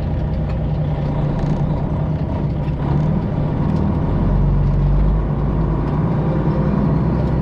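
Straight-piped Detroit Diesel 12.7-litre Series 60 engine of a Freightliner Classic XL semi truck running, with a deeper low rumble coming in about four seconds in.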